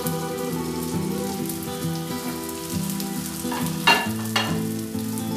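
Potato-and-bread patties sizzling in oil on a flat pan, with two sharp louder hisses about four seconds in as more patties go into the hot oil. Soft background music under it.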